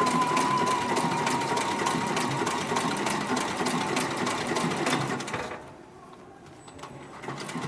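HIGHTEX 7204-MD heavy-duty ornamental-stitch sewing machine running, a fast even run of needle strokes with a steady whine in the first few seconds. It stops about five and a half seconds in and starts again near the end.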